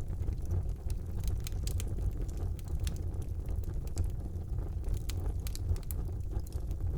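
Wood fire burning in a fireplace: a steady low rush of flame with many short, sharp crackles and pops scattered throughout.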